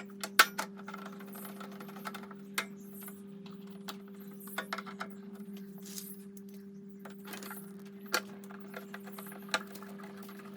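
Scattered sharp clicks and taps of plastic casing parts and small screws being handled during reassembly, a few seconds apart, over a steady low hum.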